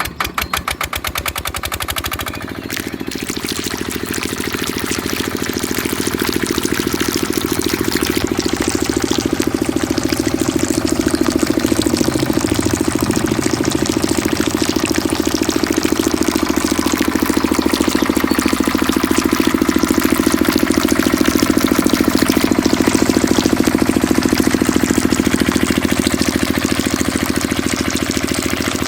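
Mini diesel engine driving a water pump, running steadily with a fast, even firing beat. In the first couple of seconds the beat is sharper and the level climbs before it settles into steady running.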